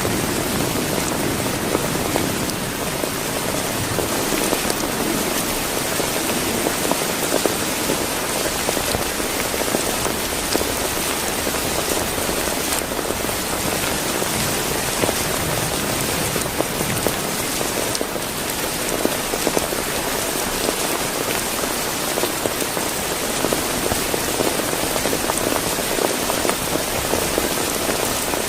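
Heavy rain falling steadily: an even hiss with the odd sharper drop.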